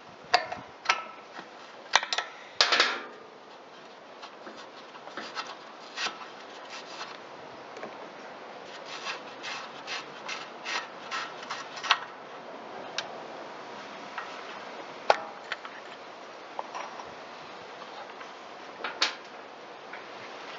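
Scattered clicks, knocks and short scraping and rubbing sounds of hand tools and metal parts as the float bowl is taken off the Kawasaki FJ180V carburetor. The loudest handling noises come in the first few seconds, with single sharp clicks later on.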